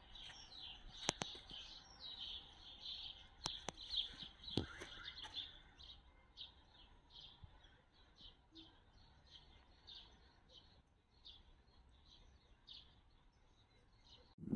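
Small birds chirping, short high calls repeating a few times a second, busiest in the first half and thinning out toward the end, with a few sharp clicks in the first five seconds.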